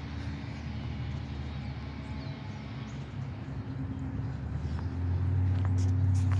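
A motor vehicle's engine running with a steady low hum, growing louder about five seconds in.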